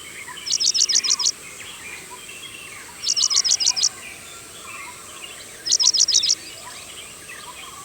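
Paddyfield pipit calling: three quick bursts of six or seven high, sharp chirps each, about two and a half seconds apart.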